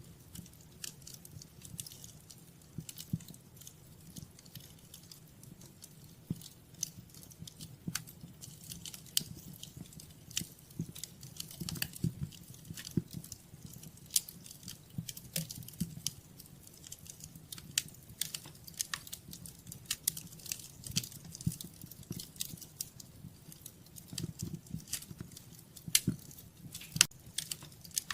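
Wood fire in a fireplace crackling, with irregular sharp pops and snaps, a few louder than the rest, over a low steady rumble of the flames.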